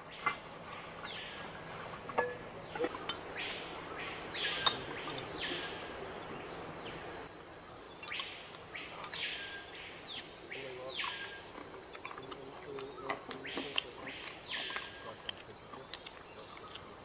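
Rainforest ambience: a bird gives a whistled call that rises and falls, about seven times and often in quick pairs, over a steady hum of insects. A few light clicks sound among the calls.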